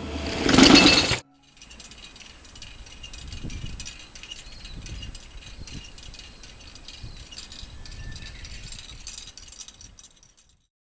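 Music ends abruptly about a second in, followed by light metallic jingling and rattling that fades out near the end.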